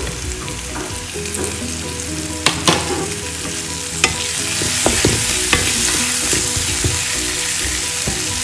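Blended red chili paste and shrimp paste sizzling in oil in a nonstick frying pan as more oil is spooned in and the paste is stirred with a plastic spatula. A few sharp knocks of the utensil come a little before the middle, and the sizzle grows louder after that.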